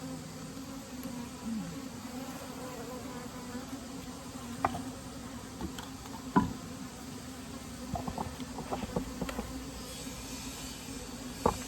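Honeybee colony humming steadily in an open hive, with a few sharp knocks and clicks of hive handling, the loudest about six seconds in.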